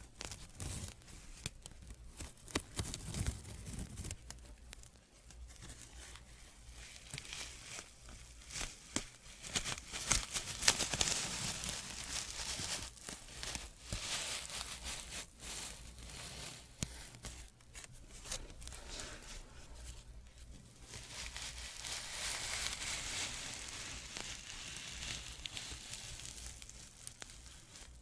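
Soft scratching as an ASMR sound: a dense, crackly rasp dotted with sharp little clicks, swelling louder twice, about ten seconds in and again after twenty seconds.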